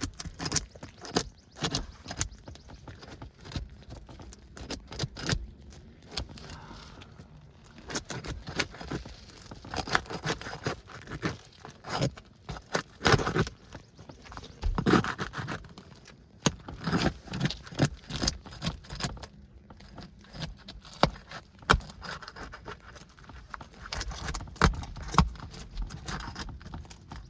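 Metal roofing snake tool scraping and prying under an old asphalt shingle to break its seal, in an irregular run of scrapes and clicks. The brittle, deteriorated shingle is cracking and delaminating as it is worked loose.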